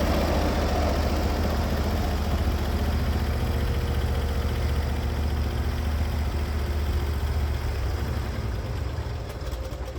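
Norwood HD36v2 portable bandsaw mill running steadily, its engine under load as the band blade cuts along the log, easing off near the end as the cut finishes.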